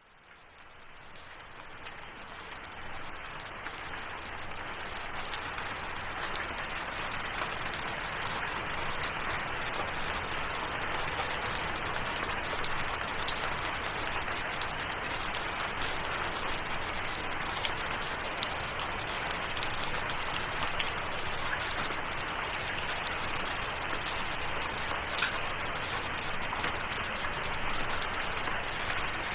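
Steady rain falling, with scattered sharp drop taps on top of the even hiss. It fades in from silence over the first few seconds, then holds level.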